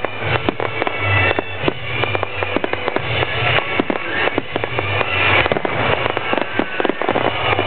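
Fireworks finale: a dense, rapid barrage of bangs and crackles from aerial shells, several reports a second without a break, with music playing underneath.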